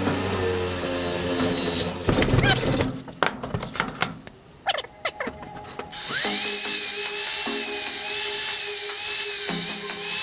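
Clatter and a few knocks, then about six seconds in a power drill spins up to a steady high whine and keeps running, over background music.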